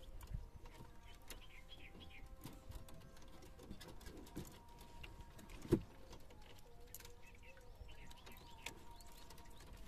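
Faint bird calls over quiet outdoor ambience, with scattered small clicks and one sharper knock a little past halfway.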